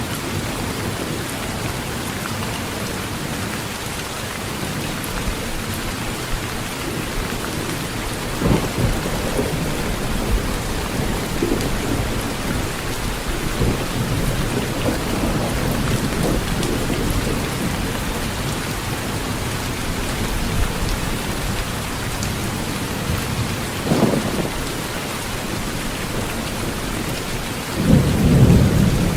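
Steady heavy rain falling on a tin roof, with thunder rumbling low several times, the loudest rumble near the end.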